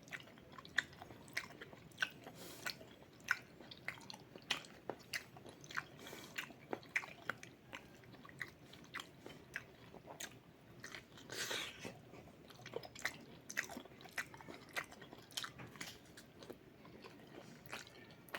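A person chewing and biting into cooked hotdog, with frequent small sharp clicks from the mouth at an uneven pace of a few a second; faint.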